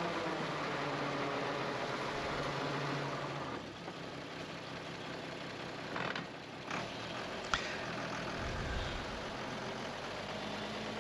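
Dump truck engine running steadily while the truck tips its load of soil. Its tone drops about three and a half seconds in, and there is a short rushing noise about six seconds in.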